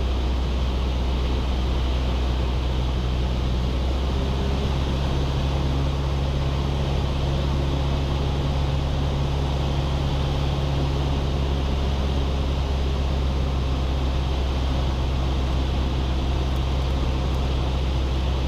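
Cessna 172's engine and propeller droning steadily in the cabin, heard through the intercom on approach with power slightly reduced. A deeper tone comes up in the drone about four seconds in.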